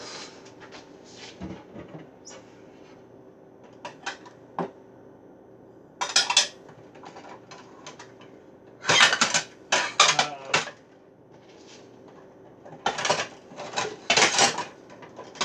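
Dishes clattering as a bowl is got out: clinks and knocks of crockery in three bunches, loudest about nine and thirteen seconds in, with light clicks between.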